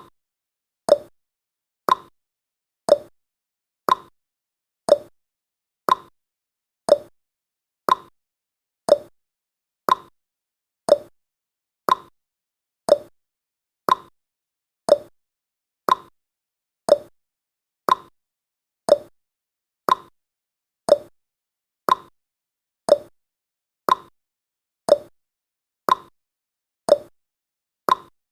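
Countdown timer's ticking sound effect: one short, sharp tick every second, evenly spaced like a clock.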